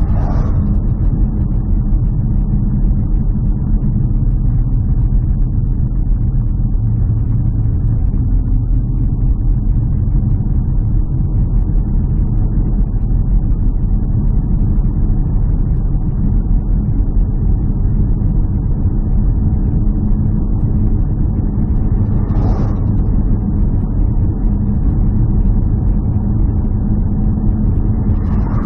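Steady low rumble of a running vehicle, with three brief higher sounds: one near the start, one about three quarters through and one near the end.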